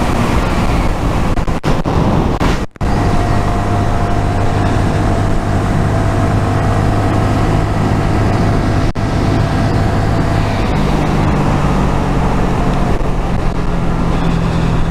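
Honda MSX125SF's 125 cc single-cylinder engine running while riding, under heavy wind and road noise on the camera microphone. The engine note steps up in pitch about eleven seconds in.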